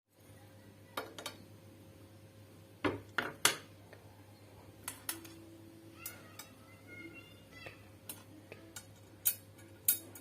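Irregular sharp metallic clicks and knocks, about a dozen, some with a brief ring: metal tools and a knife blade being picked up, set down and tapped on a workbench.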